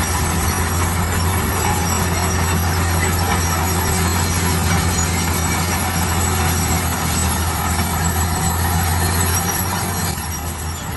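Heavy road-construction machine running under load: a steady low diesel drone with a dense noisy clatter over it, dropping a little about ten seconds in.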